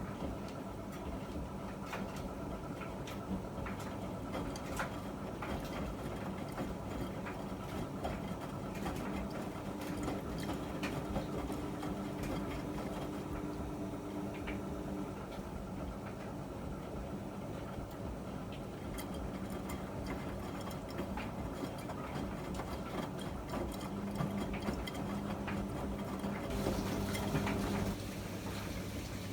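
Miele MedicWash W2585 washing machine running, its drum motor humming steadily with light patter and clicks of laundry turning in the drum. Near the end a hiss of water flowing in starts.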